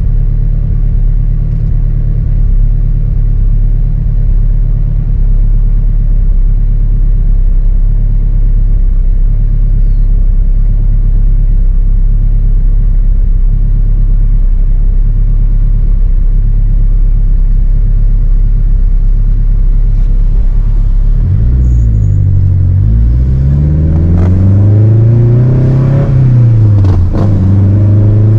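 Turbocharged Honda K20 four-cylinder engine in an Acura RSX Type-S, driving at steady revs with a low, even drone. About three quarters of the way through, the engine note swings, climbing for a few seconds and then dropping back before settling steady again.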